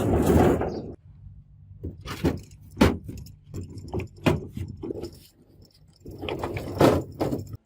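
Metal clinking and scraping: a short scraping rush, then a run of sharp, uneven metallic knocks and clinks, with more scraping near the end.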